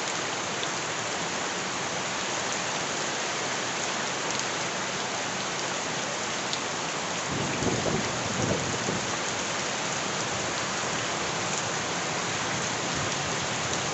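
Steady rain falling, a dense, even hiss with a few sharper drip ticks. A low rumble swells briefly about halfway through.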